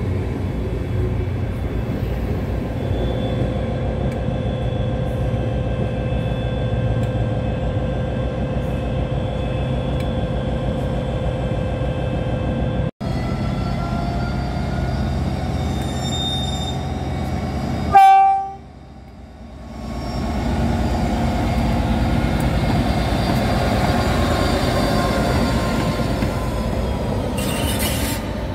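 Northern Class 323 electric multiple unit pulling out, a steady electric whine over rumbling wheels. After a cut, DRS Class 57 diesel locomotive 57308 runs in light engine: a short, loud horn tone a little over halfway through, then its EMD two-stroke diesel engine running louder as it nears.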